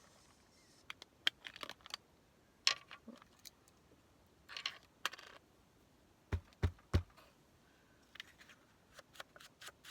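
Craft supplies being handled on a desk: scattered light clicks and taps with a few brief scrapes, three dull thumps about two-thirds in, and a run of quick, evenly spaced taps starting near the end.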